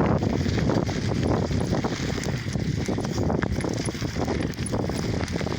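Lowrider bicycle being ridden: a continuous rattle and clatter of many small knocks over a steady rumble of tyre and wind noise.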